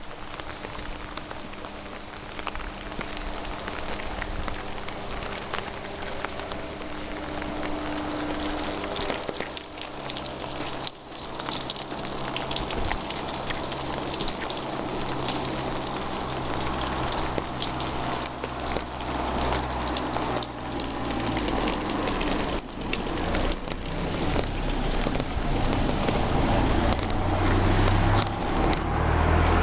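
Steady rain falling and pattering on surfaces. A low engine hum builds near the end as a vehicle approaches.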